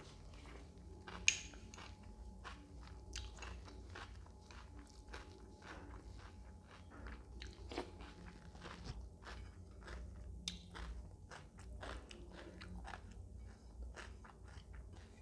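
Close-miked chewing and crunching of food: wet mouth clicks and crackles coming in quick succession, with a sharper, louder click about a second in.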